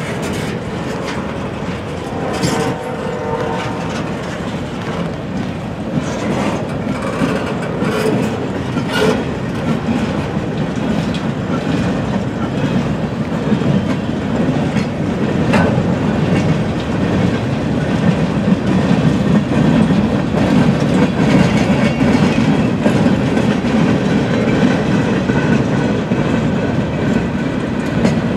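Norfolk Southern freight cars rolling past at close range: a steady rumble of steel wheels on rail, with wheel clicks over the joints and sharp clanks now and then from the trucks and couplers.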